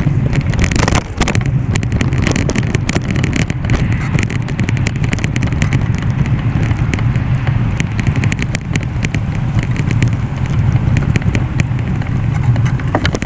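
Loud, steady rush of wind and road noise on the camera's microphone while riding, with many small clicks and rattles throughout.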